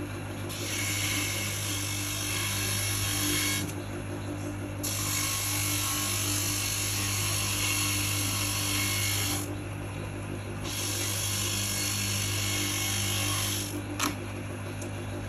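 Electric coconut-grating machine running with a steady low hum. A loud grinding noise comes and goes in three long spells as it shreds coconut meat, and a few sharp clicks come near the end.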